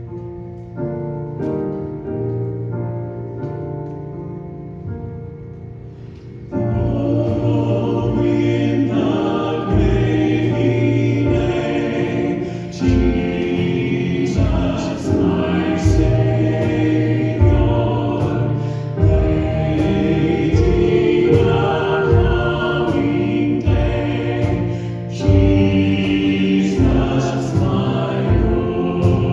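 Church worship music starting a congregational hymn: a few seconds of held keyboard chords, then about six and a half seconds in a full band with a steady drum beat comes in, with choir-like singing.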